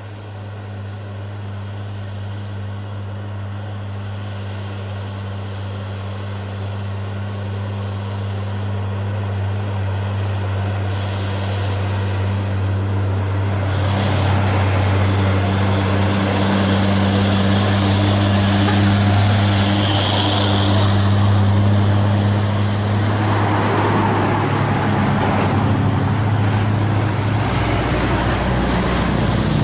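Heavily loaded diesel truck engine labouring uphill at a steady low pitch, growing louder as it comes closer. A wider rush of noise builds from about halfway, with a short high squeal about two-thirds through.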